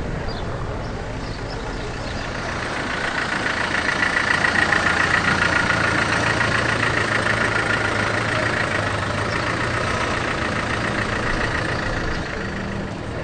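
Car engine running, growing louder a few seconds in, holding, then easing off near the end.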